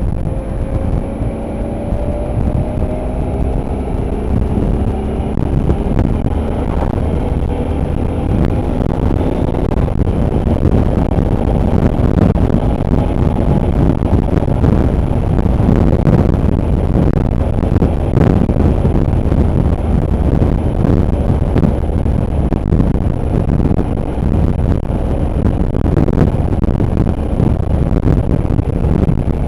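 Motorbike engine slowly rising in pitch over the first ten seconds or so as the bike gathers speed. After that it is buried under heavy wind rush on the microphone while riding at speed.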